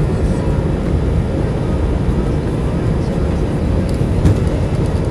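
Airbus A320 jet engines running with a steady low rumble and a faint steady whine.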